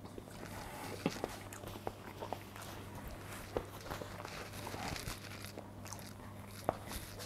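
A person chewing a mouthful of food, with small scattered clicks of eating and handling, over a faint low steady hum.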